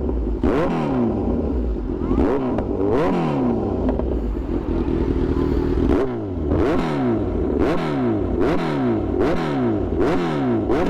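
Kawasaki Z900 inline-four engine with an aftermarket Austin Racing exhaust, revved in repeated throttle blips, each climbing and dropping back. The blips are spaced out at first and come about one and a half a second in the second half.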